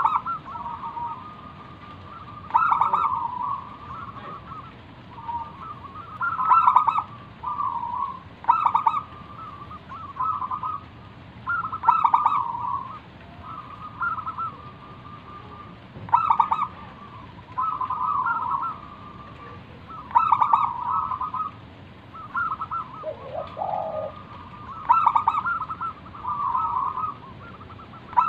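Zebra dove (perkutut) singing: repeated phrases of quick, staccato cooing notes, one phrase every second or two. A single lower, shorter call comes in a little past the middle.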